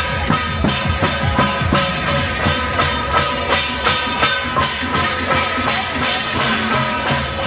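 Procession percussion music: drums beating steadily at about two strokes a second, with sustained metallic ringing tones over them.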